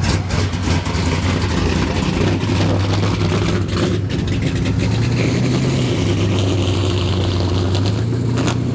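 Classic muscle car's engine idling at a steady low pitch, nudged up slightly about five seconds in. A short sharp click comes near the end.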